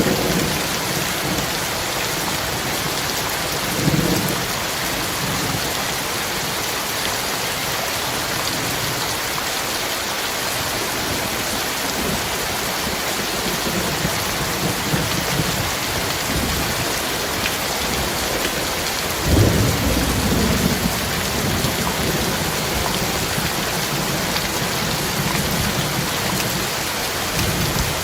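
Heavy rain pouring steadily, with low rolls of thunder rumbling underneath; the loudest roll comes about two-thirds of the way through.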